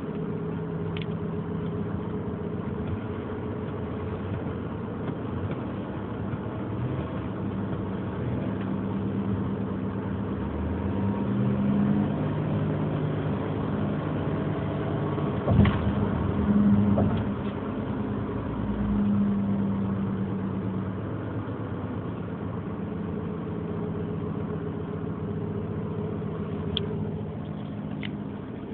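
2003 Nissan Murano 3.5-litre V6 running at idle, revved up and back down twice, with a single sharp knock a little past halfway. The owner reports a strange clicking, tapping engine noise.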